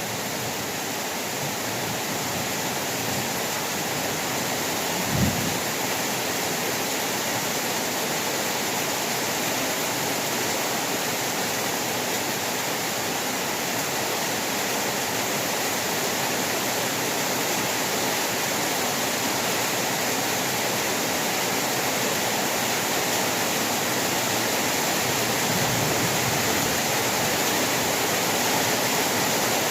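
Heavy rain falling in a steady, dense hiss, with one brief low thump about five seconds in.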